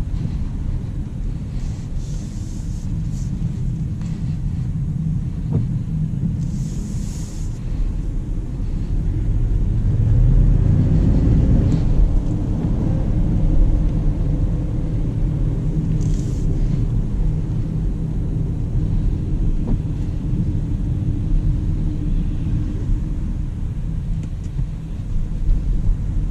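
Jaguar I-Pace electric car on the move, heard as a steady low rumble of road and tyre noise. About ten seconds in it swells for a few seconds, with a tone that rises and then falls in pitch.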